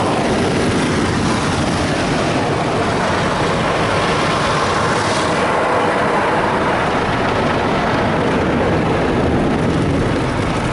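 Mark VII ChoiceWash XT rollover car wash running over the car, heard from inside the cabin: a loud, steady rush of spinning wash brushes scrubbing and water spraying on the body.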